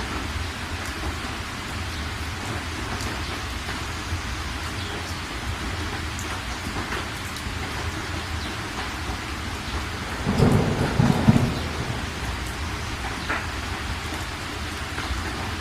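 Steady heavy rain falling, with a short, louder rumble of thunder in two quick pulses about ten seconds in.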